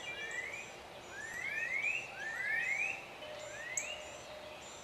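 A chorus of animal calls: rising chirps about half a second long, repeated every half second to a second and some in quick pairs, over a faint steady hiss, with fainter high chirps above.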